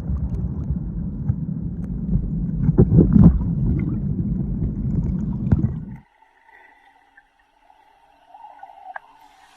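Muffled rushing and gurgling of waterfall water, heavy and churning, with a few knocks, heard close to the microphone. It cuts off suddenly about six seconds in, leaving only a faint steady tone.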